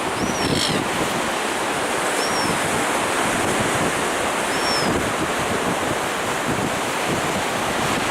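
Wind rushing and buffeting the microphone, a steady heavy noise, with a few short high falling chirps over it.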